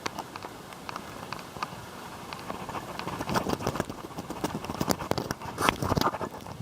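Footsteps on an asphalt-shingle roof: irregular taps and gritty scuffs of shoes on the shingles, with louder steps about three and a half and six seconds in.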